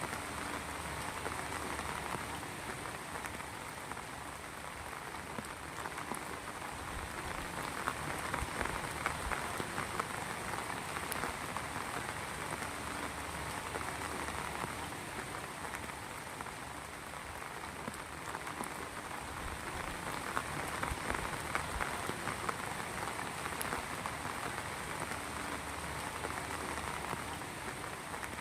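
Heavy rain falling steadily, a dense patter of drops that swells and eases slightly in loudness.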